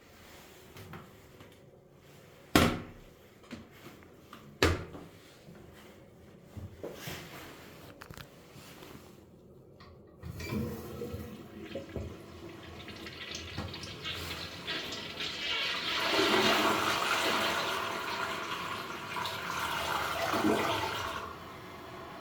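Kyerim Ceramics C-557F toilet flushing. Two sharp knocks come in the first few seconds, then the flush starts about ten seconds in. The rushing water builds and stops suddenly near the end, leaving a quieter steady hiss.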